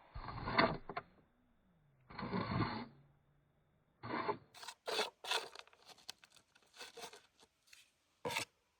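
Rough pieces of rock rubbing and scraping together in a hand, in separate bursts: two longer, duller scrapes in the first three seconds, then a run of short sharp clicks and scrapes from about four seconds on.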